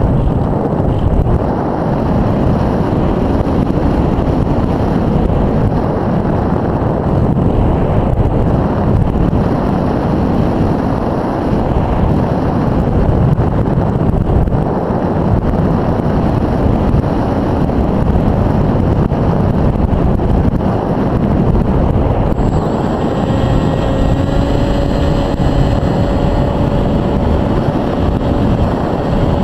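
Wind rushing over the onboard camera's microphone of an Easystar 2 RC model plane in flight. About three-quarters of the way through, a steady whine from its electric motor comes in and holds, rising slightly in pitch just after it starts.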